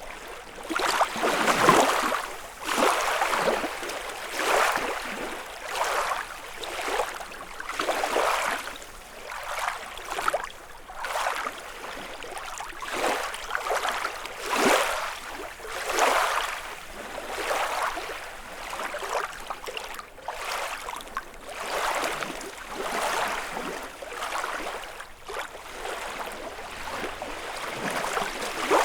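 Small lake waves lapping and splashing against the shore, one splash after another, about one every second or so.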